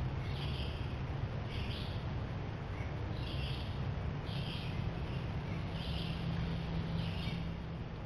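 A bird calling: six short, similar calls about a second apart, over a steady low hum.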